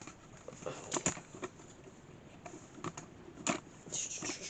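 Scattered light clicks and knocks of objects being handled, with a short rustle near the end.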